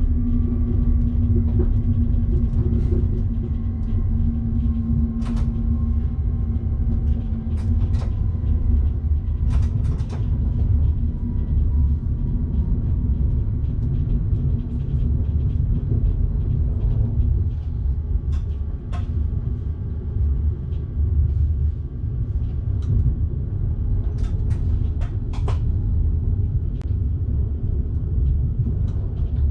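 Train running along the line, heard from the driver's cab: a steady low rumble with scattered sharp clicks, and a steady hum that fades out about eight seconds in.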